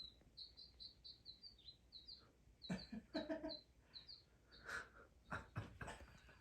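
A small bird chirping faintly in a quick run of short, high chirps that stops about four and a half seconds in. A few soft knocks follow near the end.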